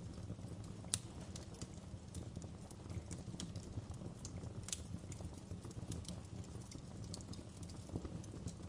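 Wood fire crackling: irregular sharp pops and snaps over a steady low rumble of the flames, with one louder pop about a second in.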